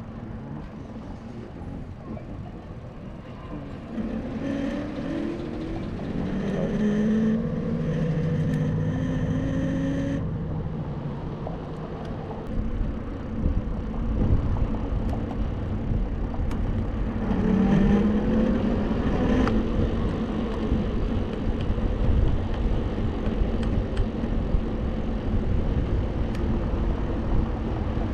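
Low wind rumble on an action-camera microphone while riding an e-bike. Twice, a motor whine rises in pitch: once from about four seconds in to about ten seconds, and again briefly around seventeen seconds.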